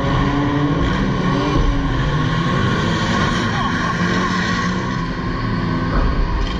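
Engines of several pre-1975 banger racing cars running and revving on a dirt oval, their pitches rising and falling as they drive past.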